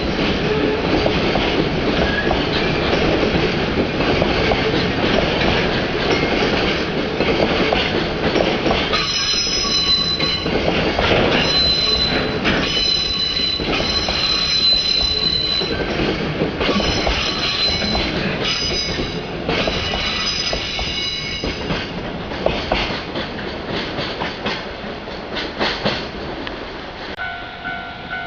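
Container freight train rolling past, its wheels squealing on and off in high tones, with rail-joint clicks growing more distinct as the noise fades near the end.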